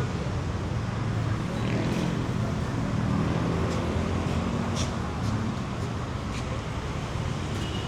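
City street ambience: steady traffic noise with vehicle engines running by, a low hum underneath, faint voices and a few short sharp clicks.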